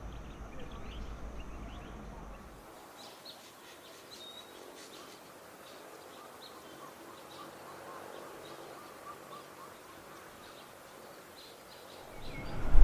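Wild birds calling: many short, high chirps and calls, with wind rumble on the microphone for the first couple of seconds. A louder noise swells in near the end.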